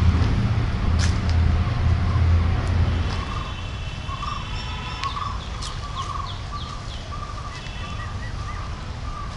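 Birds calling: repeated short chirps at one pitch, roughly twice a second, with higher whistled notes and a few quick falling calls in the middle. A low rumble fills the first three seconds, then drops away.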